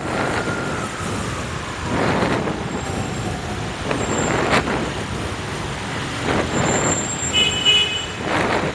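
Busy street traffic, mostly motorbikes and cars passing one after another in swells of road noise. A short beep of a horn comes near the end.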